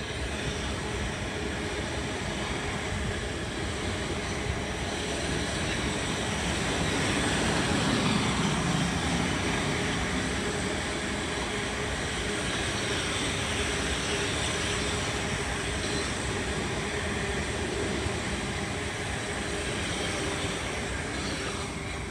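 Electric suburban commuter train in South West Trains livery running past the platform, with wheel-on-rail and motor noise that swells to its loudest about eight seconds in and eases off near the end. A jet airliner passing overhead is also heard.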